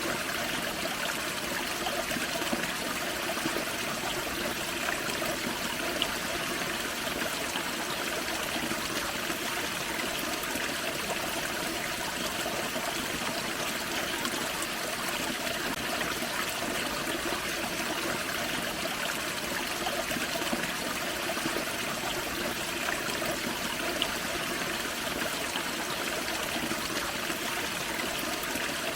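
Small forest creek waterfall: water splashing and trickling over rocks in a steady, unbroken rush, with small drip and splash ticks now and then.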